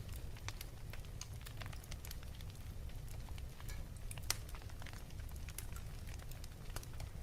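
Wood fire crackling in a fireplace: a steady low rumble with scattered small pops and one sharper pop about four seconds in.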